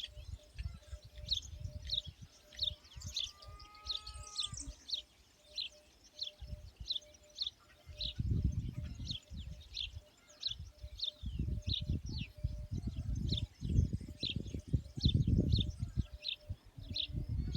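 A bird chirping over and over, a short falling chirp about twice a second, with a brief different call about three to four seconds in. Irregular bursts of low rumble come and go, loudest in the second half.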